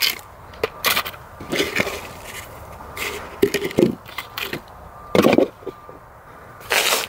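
Irregular crunches and scrapes in snow, spaced about a second apart and sometimes closer: a person moving about and handling things in fresh snow.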